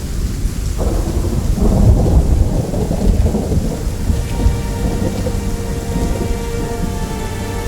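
Rolling thunder over steady rain, the rumble swelling about a second in and peaking around two seconds before easing off.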